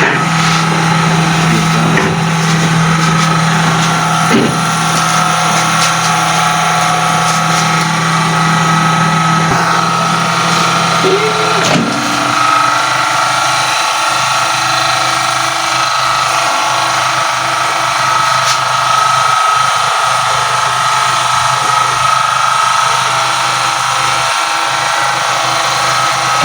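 BEKO microwave oven running with a steady electrical hum. A low tone in the hum changes about twelve seconds in.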